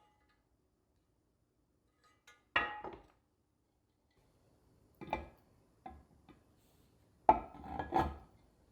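Kitchenware being handled: a few separate knocks and clinks as things are set down. The loudest cluster comes about a second from the end.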